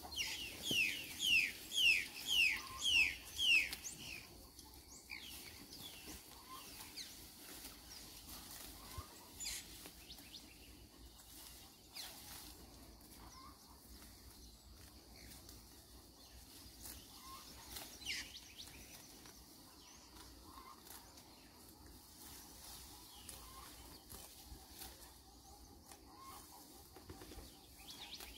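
A bird calling: a run of about seven quick, falling whistled notes, about two a second, in the first few seconds. After that come scattered faint bird chirps over quiet outdoor ambience.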